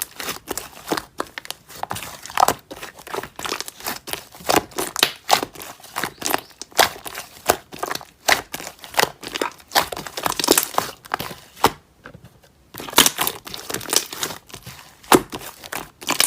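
Slime being squeezed and pressed by hand, giving a dense run of crackling, popping clicks, with a brief pause about twelve seconds in.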